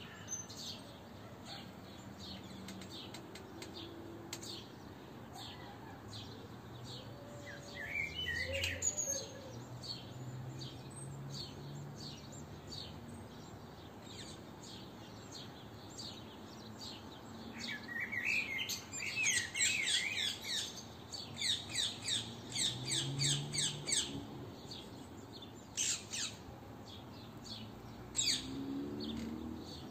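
Daytime birdsong: several birds chirping and calling intermittently, with a long run of rapid, repeated high chirps about two-thirds of the way through.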